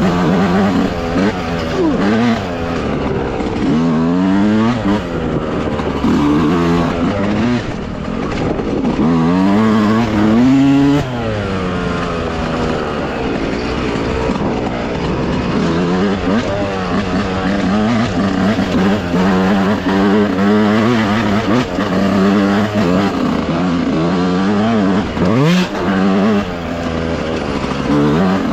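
Dirt bike engine revving up and down repeatedly while trail riding, its pitch rising and falling with the throttle every second or two.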